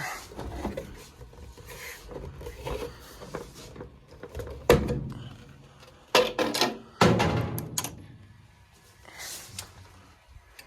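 A few sharp knocks and a rattle or clatter, the loudest about halfway through, over a faint low hum, like parts of the furnace cabinet or tools being handled.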